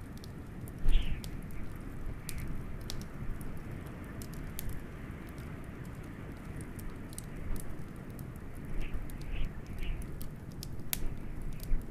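Wood fire crackling with scattered sharp pops, a few louder ones about a second in and again near the end, over a steady low rumble of wind.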